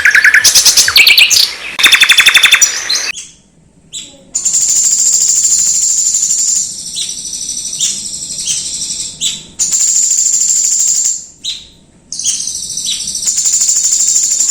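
Songbird song played as masteran training audio. For about three seconds it gives a fast run of repeated high notes. After a brief break comes a long, thin, very high held note, interrupted now and then by short sharp downward-slurred notes.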